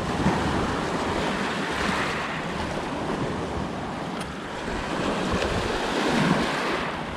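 Waves washing onto a lake shore, surging and falling back in slow swells, with wind buffeting the microphone.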